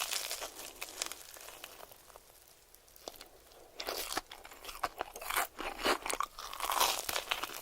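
Close-miked ASMR eating: a mouthful of crunchy food being bitten and chewed, with crisp crunches. The crunching thins out about two seconds in and picks up again about a second later.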